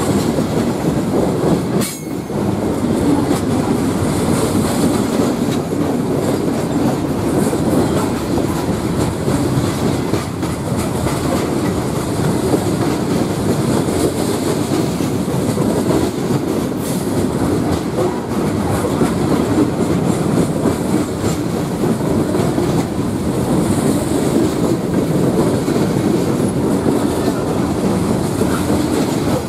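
Loaded open-top coke hopper cars of a CSX freight train rolling past at close range: a steady rumble of steel wheels on rail with a continuous clickety-clack of wheels over the joints.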